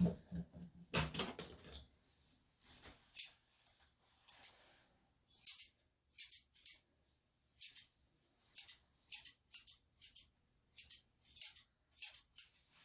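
Grooming scissors snipping through a Shih-Tzu's matted tail fur: about eighteen short, crisp metallic snips at an uneven pace.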